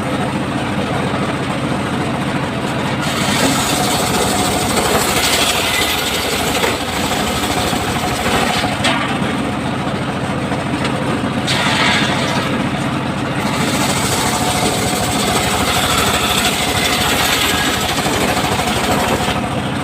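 Circular sawmill running steadily under its engine-like drone, with a higher, harsher cutting noise that comes and goes several times as the blade goes through timber.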